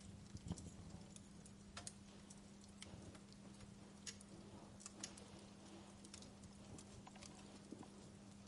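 Wood fire crackling softly: irregular sharp pops and snaps scattered over a low steady hum.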